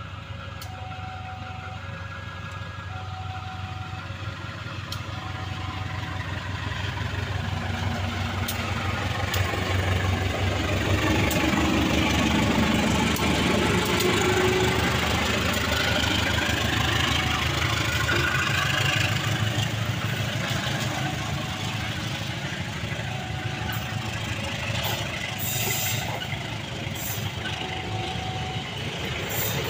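KAI diesel-electric locomotive running as it approaches and passes close by, loudest about halfway through. Passenger coaches follow, rolling past with sharp wheel clicks over the rail joints near the end. A short beeping tone repeats evenly throughout.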